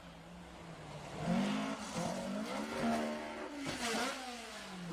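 Rally car engine revving hard. Its note climbs about a second in, dips and climbs again, then falls steadily near the end.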